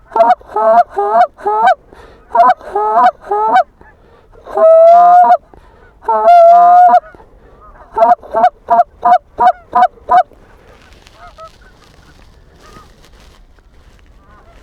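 Handheld goose call blown close by, imitating Canada geese: runs of short clucks, two longer drawn-out honks midway, then a fast run of about four clucks a second that stops about two-thirds of the way through, leaving only faint distant honking.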